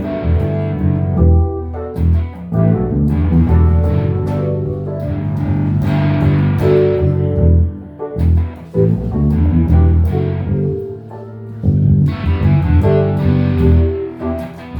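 Guitar music with a bass line: plucked guitar notes played over a low bass, dipping briefly about eight and eleven seconds in.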